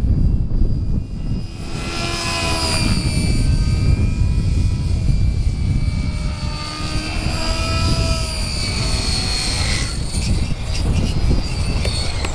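Gaui X5 electric RC helicopter in flight: the whine of its motor and rotors rises and falls in pitch as it manoeuvres, over a steady low rumble.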